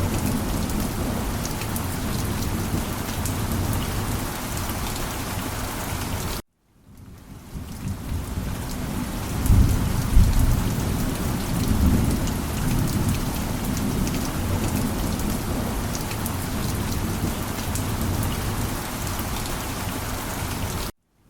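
Steady heavy rain with low rumbles of thunder, strongest about three seconds after the halfway-in dropout. The sound cuts out suddenly for about half a second roughly a third of the way in, fades back up, and cuts out again right at the end.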